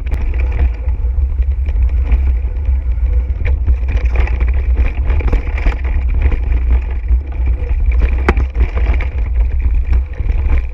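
Mountain bike rattling and knocking over a rough trail, with heavy wind buffeting on the microphone. There are many irregular sharp clicks and clatters, one louder knock about eight seconds in.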